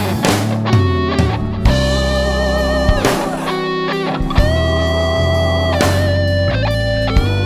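Blues-rock band music with no vocals: an electric guitar plays long held lead notes with bends and vibrato over bass guitar and drums.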